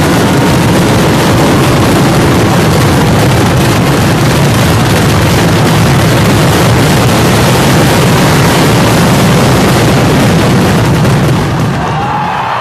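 Fireworks finale: a loud, continuous barrage of blasts packed so close that they merge into one steady din, easing a little near the end.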